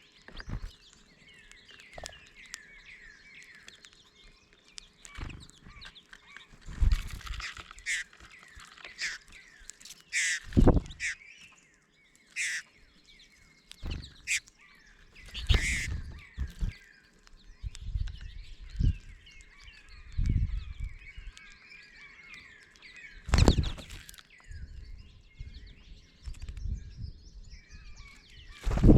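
Goldfinches chattering and twittering in a quick run of short chirps, bickering. Several loud, sharp bumps and knocks and some low thumps come through among the calls.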